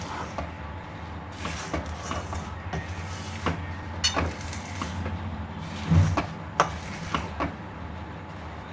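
Kitchen utensil scraping and knocking in a pan of sesame seeds and jaggery syrup while the mixture is stirred: irregular clicks and scrapes, with a heavier knock about six seconds in, over a steady low hum.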